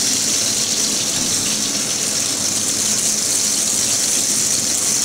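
Breaded pork loin cutlets frying in hot oil in a frying pan: a steady, even sizzle.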